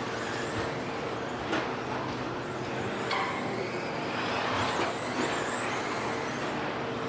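Electric RC stadium trucks with 13.5-turn brushless motors racing on a dirt track: several high motor whines rising and falling as they speed up and slow down, with a few sharp knocks.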